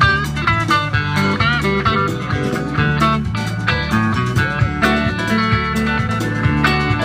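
Live country-rock band playing an instrumental break with a steady drum beat, bass, and guitars whose notes bend and slide in pitch.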